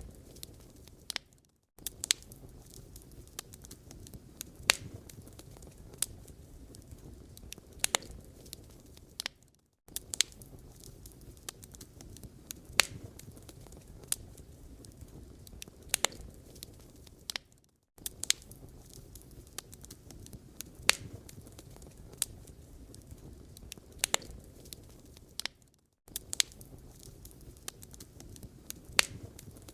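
Wood fire burning in a fireplace: irregular sharp crackles and pops over a soft low rumble of the flames. The sound drops out briefly about every eight seconds, as in a looped recording.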